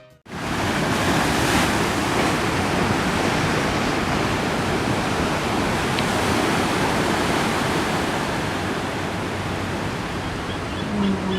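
Steady rushing outdoor noise with no breaks or surges, the kind made by ocean surf or by wind. A faint pitched sound begins just before the end.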